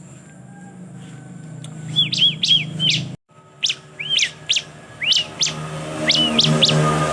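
Ciblek (bar-winged prinia) calling: runs of quick, arched chirps, several a second, starting about two seconds in, over a low steady hum. The sound drops out for a moment a little after three seconds.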